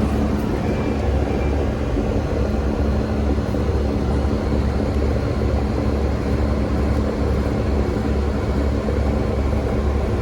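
1998 Rheem air conditioner running steadily: a deep, even hum with a few steady tones above it under a constant rushing noise.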